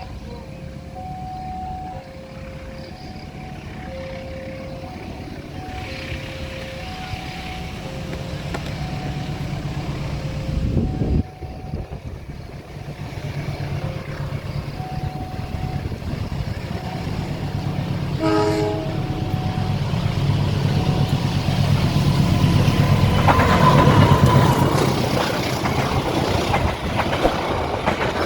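Railway level-crossing warning chime sounding a slow alternating two-note signal, while the low rumble of an approaching train grows steadily louder. A brief horn toot comes about eighteen seconds in.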